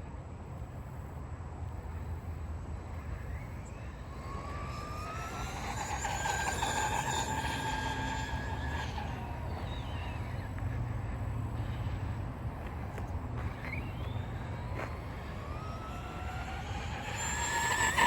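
Arrma Big Rock v2 RC monster truck's brushless motor whining at full throttle on a 3S LiPo during a speed run. The whine rises in pitch as it accelerates, fades and drops, then rises again and is loudest near the end as the truck comes back close.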